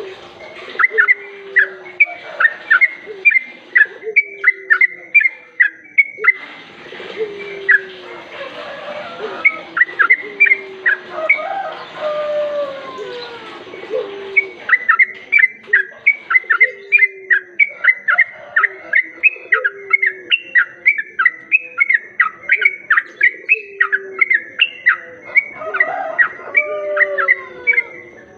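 Olive-winged bulbul (trucuk) song played as a lure recording: fast runs of short, bright chirping notes over lower falling notes repeated about once a second. A hiss rises under the song in the middle and then drops away.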